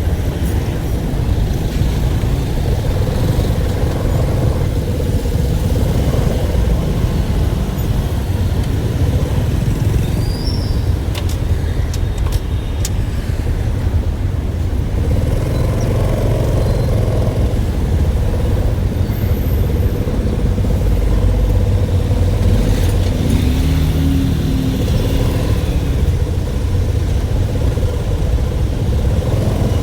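A vehicle engine running steadily and loud, low-pitched, with a constant hum above it and a few brief clicks about midway.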